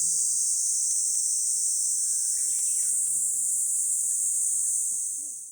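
A loud, steady, high-pitched chorus of insects shrilling outdoors, fading out near the end.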